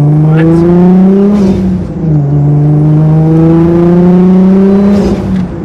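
Turbocharged straight-six of a tuned Nissan Skyline R33 GTS-t with a Garrett GTX3076 turbo, pulling hard under full throttle. The engine note climbs, drops at an upshift about two seconds in, climbs again and falls away near the end.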